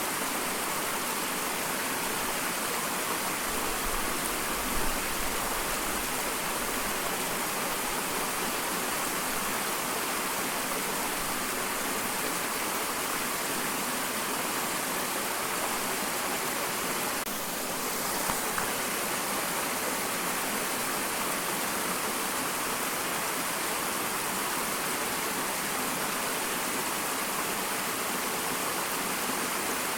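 Small waterfall: water falling and splashing in a steady hiss, with a brief low rumble about four to six seconds in.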